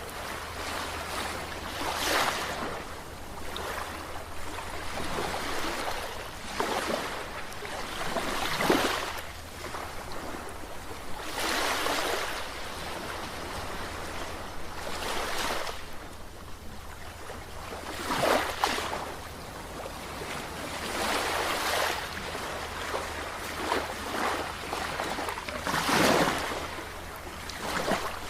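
Ocean waves breaking and washing in, each surge swelling and fading every three to four seconds.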